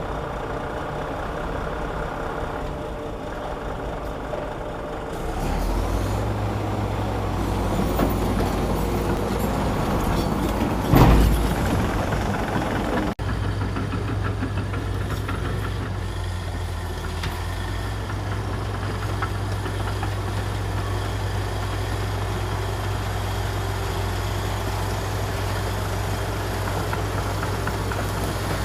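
Heavy diesel engine of earthmoving machinery running steadily. The engine gets louder about six seconds in, and a single loud thump comes about eleven seconds in.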